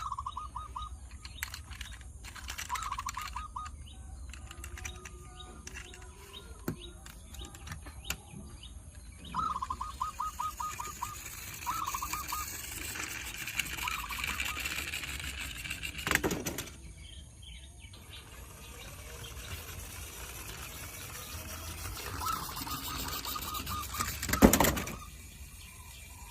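A bird calling in short, rapid trills repeated every few seconds. Two louder clatters break in, one about two-thirds of the way through and a stronger one near the end.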